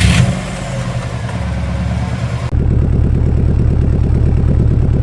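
Subaru WRX STI's turbocharged flat-four idling through an Invidia N1 exhaust just after a start. About two and a half seconds in the sound changes abruptly to a steady, pulsing exhaust note. With a new exhaust gasket fitted, the owner finds the leak fixed.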